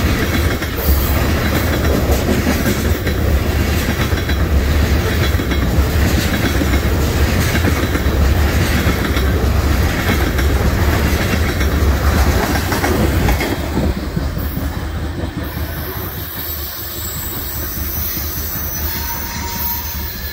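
Freight train of oil tank cars rolling past close by: a steady low rumble with rhythmic clickety-clack of the wheels over the rail joints. About thirteen seconds in the last car passes and the sound drops and fades as the train moves away.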